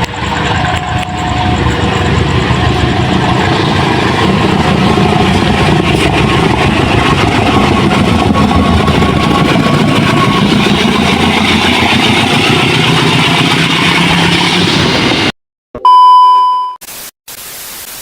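Train running close by with a steady loud engine and rail noise, which cuts off abruptly about fifteen seconds in. A short, very loud electronic beep tone follows.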